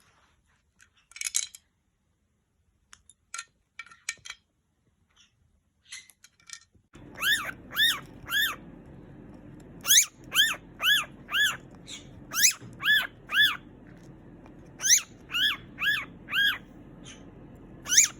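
Pet parrot calling: a run of loud, clear calls, each rising and falling in pitch, about two a second in groups of three or four, beginning about seven seconds in. Before that there are only faint scattered clicks and taps.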